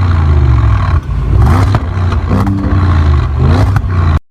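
Audi S8 engine through a Milltek cat- and filter-back exhaust, revving hard, its pitch climbing and dropping several times. The sound cuts off abruptly near the end.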